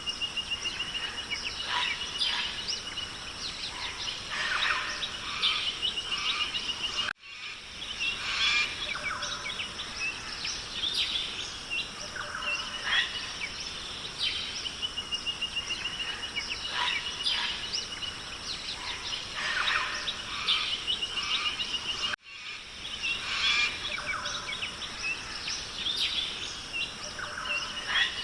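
Forest ambience: several birds calling and trilling over a steady background hiss. The sound cuts out for an instant twice, about fifteen seconds apart, and the same calls repeat after each cut, as in a short recording played on a loop.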